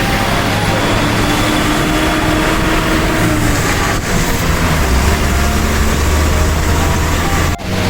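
Truck engine running steadily while driving, its hum under a constant rush of noise. The sound drops out for a moment near the end.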